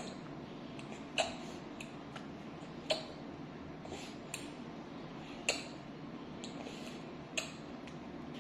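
A breastfeeding baby making sharp clicks every second or two, with fainter ticks between them, as the tongue drops and breaks the seal on the breast. Such clicks are one of the signs of an incorrect latch.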